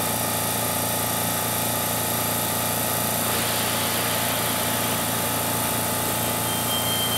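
Keihan electric train at the platform, a steady mechanical hum and rumble. About three seconds in, a hiss grows louder over it.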